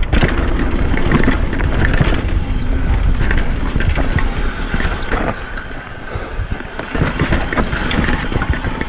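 Retro downhill mountain bike descending a trail: wind buffeting the microphone and tyre noise on dirt, with frequent rattles and knocks from the bike over rough ground. It eases off a little about halfway through.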